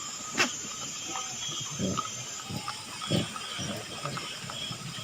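Monkeys making a few short, low calls, scattered through a steady background hiss, with one sharp click about half a second in.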